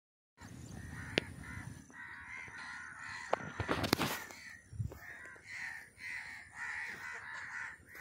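Birds calling outdoors in short calls repeated about twice a second. A few sharp knocks from handling near the microphone come about a second in and again around four seconds in.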